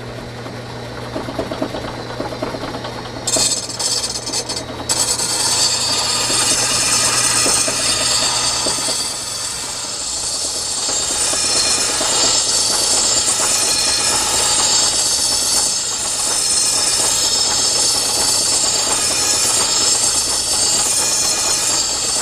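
Old Champion grinder running with a steady motor hum while a steel lawnmower blade is held against the grinding wheel, sharpening it. The grinding starts about three seconds in and goes on as a loud rasping grind that swells and eases as the blade is worked across the wheel.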